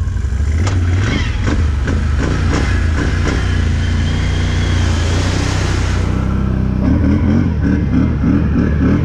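Off-road vehicle engine running and revving hard, with a few knocks early on. A hissing rush rides over it and cuts off abruptly about six seconds in, followed by choppy, pulsing engine sound.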